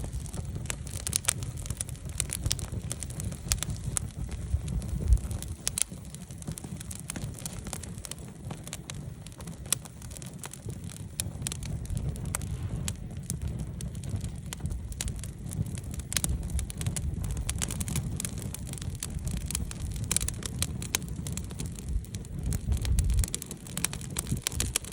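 Wood campfire crackling, with frequent sharp pops and snaps from the burning logs over a steady low rumble.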